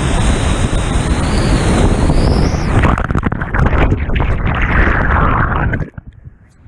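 Whitewater rushing and crashing around a kayak running a waterfall drop, with wind buffeting the microphone. About three seconds in it turns to heavy splashing and churning. Near the end it suddenly drops to a muffled hush.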